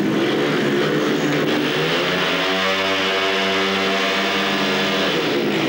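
Speedway motorcycles' 500 cc single-cylinder engines revving together at the starting tapes. The note rises and is held steady from about two seconds in, then breaks off near the end.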